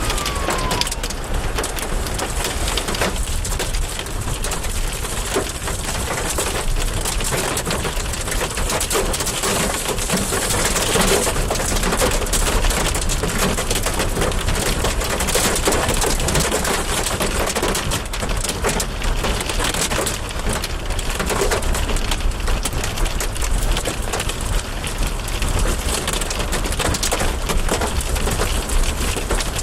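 Heavy storm rain beating down steadily, with many sharp drop impacts and a low wind rumble.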